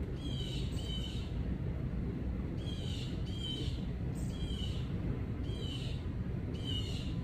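Blue jay giving harsh, repeated calls, about seven short notes, some in quick pairs, roughly a second apart, with another bird calling back.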